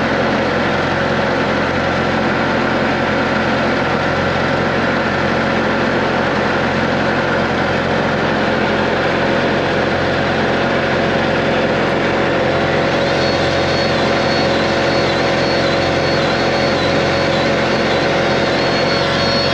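Diesel skid steer engine idling steadily as it warms up after a cold start. A faint high wavering whine joins about two-thirds of the way through.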